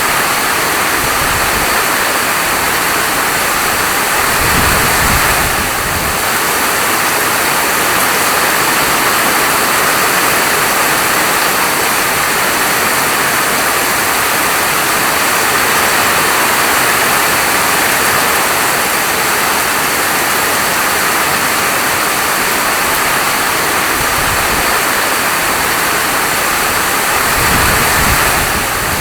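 Steady, heavy falling rain, an even hiss. Two brief low rumbles rise under it, about four seconds in and again near the end.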